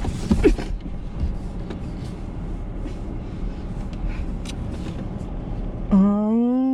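Steady road noise of a car in motion, heard from inside the cabin, with a few small clicks. Near the end a single loud, long pitched call rises and then falls.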